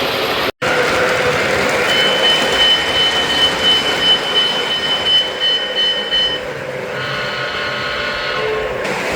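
O-gauge model locomotives running on a toy train layout, a steady rumble of motors and wheels on the track. A high steady tone sounds for about four seconds, followed near the end by a chord of several steady tones. The sound cuts out for an instant about half a second in.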